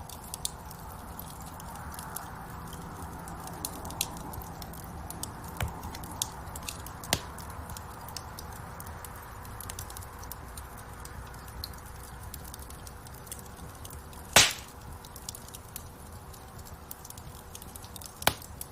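Wood fire burning in a fireplace: a steady hiss of flames with frequent small crackles and snaps, a loud pop about fourteen seconds in and another sharp one near the end.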